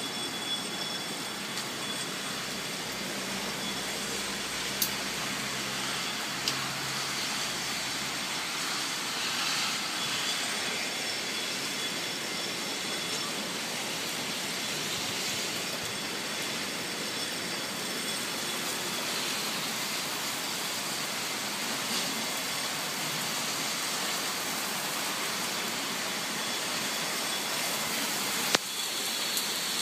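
Heavy rain pouring steadily, an even hiss, with a couple of short sharp ticks of drops striking something.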